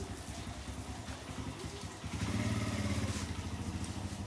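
A small engine running with a rapid, even pulse, growing louder about two seconds in.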